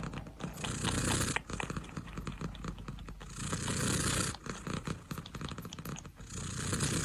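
A cat purring close to the microphone: a fast rattling pulse that swells louder and hissier about every three seconds.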